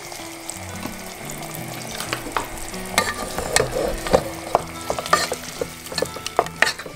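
Tomato sauce sizzling in a speckled nonstick pot on the stove while a wooden spatula stirs it. From about two seconds in, the spatula scrapes and knocks against the pot.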